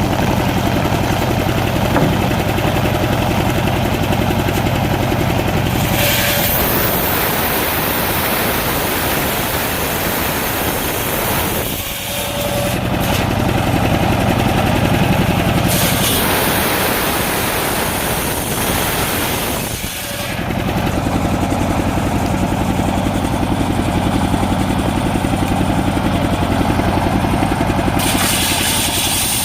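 Engine-driven circular saw ripping a coconut palm trunk: the engine runs steadily between cuts, and the blade's harsh cutting noise comes in about six seconds in, again around sixteen seconds, and once more near the end.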